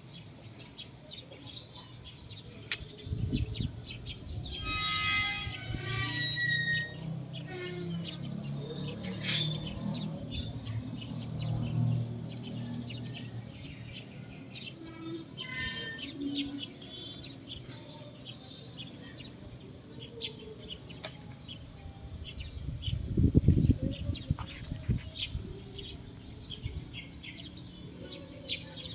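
Birds chirping: a long run of short, high, downward-sliding chirps, about one or two a second, with a different, fuller call about five seconds in. A low rumble, the loudest sound, comes about two-thirds of the way through, and a low hum sits under the first half.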